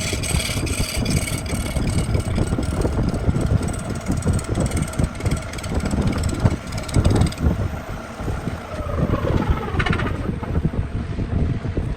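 Wood lathe running, a steady motor whine over rough, clattering low noise. About nine seconds in, the whine falls in pitch as the lathe is switched off and spins down.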